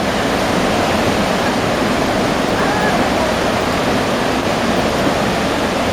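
Whitewater rapids rushing in a steady, loud roar of churning river water.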